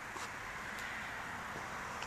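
Steady outdoor background hiss, with a couple of faint light ticks.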